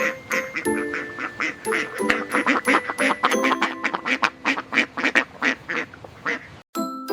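Duck quacking over and over in a quick run, about four quacks a second, over light children's music; the quacks stop about six and a half seconds in.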